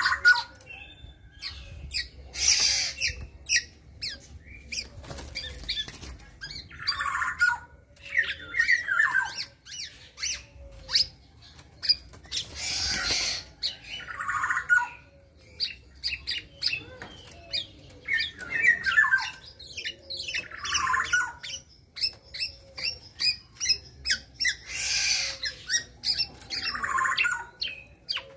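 A young black-naped oriole calling repeatedly: harsh, grating squawks every few seconds, mixed with shorter whistled notes.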